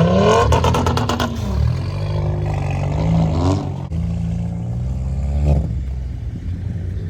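A car engine running, its pitch rising and falling several times as it is revved, with a quick run of clicks about a second in.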